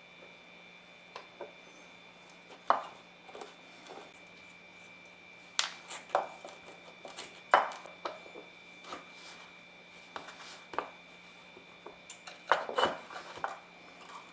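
Irregular clicks, knocks and clatters of small parts and tools being handled on a workbench, the loudest knocks about three, seven and a half and thirteen seconds in, over a faint steady hum and a thin high tone.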